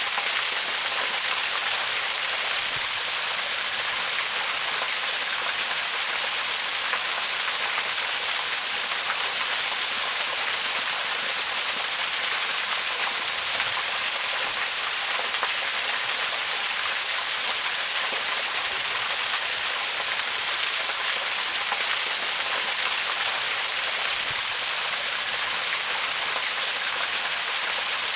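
Waterfall: a steady, unbroken rush of falling water, hissy and bright, with little low rumble.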